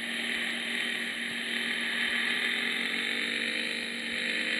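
Yamaha XJ motorcycle engine running under steady wind noise, its pitch climbing slowly near the end as the engine revs up.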